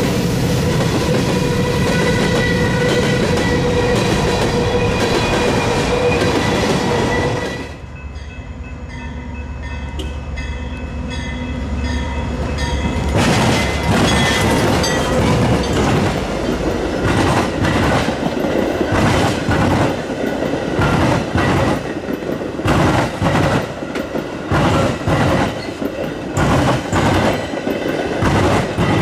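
A train running past: a steady rolling rumble with faint held tones. About eight seconds in, that sound cuts off abruptly. Another train then builds up and passes with a regular clickety-clack of wheels over rail joints.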